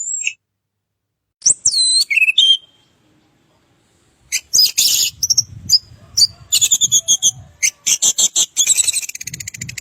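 Birds chirping and whistling in short, high-pitched calls, broken by a couple of sudden silent gaps, then a busy run of chirps in the second half ending in a fast trill.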